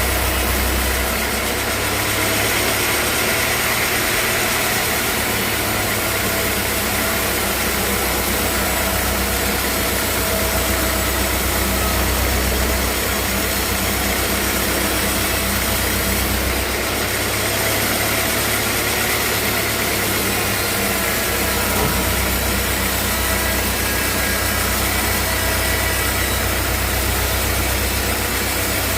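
Sawmill machinery running steadily, a continuous engine-like drone with a hiss spread across the whole range. The low hum swells and drops back a few times.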